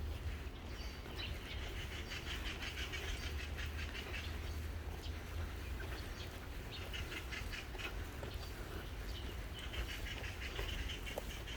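Birds chirping in rapid trills on and off, over a low steady rumble.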